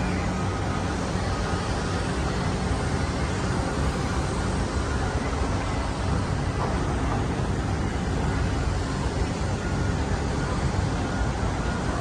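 Steady city traffic noise: a continuous wash of road rumble with a low hum, no single event standing out.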